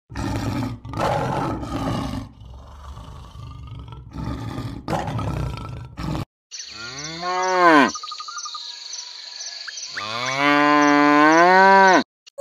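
A leopard growls in several rough bursts for about six seconds. Then cattle moo twice, each moo rising and falling in pitch, the second one longer.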